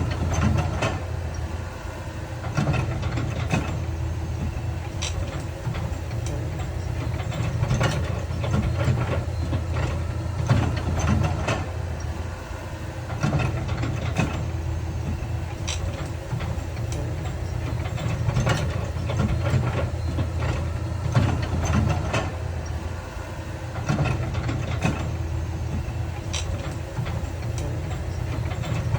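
Heavy diesel earthmoving machinery running steadily under a low rumble, with sharp metallic clanks and knocks every few seconds.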